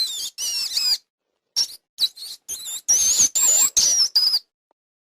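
A small animal's high-pitched squeaking calls: a string of short, gliding bursts with brief gaps between them, stopping about four and a half seconds in.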